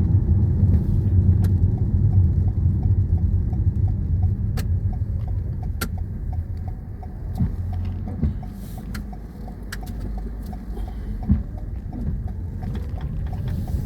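Car cabin noise while driving: a steady low rumble of engine and tyres on the road, easing off about halfway through, with a few faint clicks.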